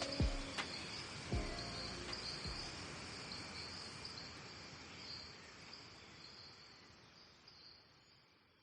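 Insects chirping in a steady high pulsing trill, while the last notes of a piece of music fade out in the first second or so. Both die away to near silence in the second half.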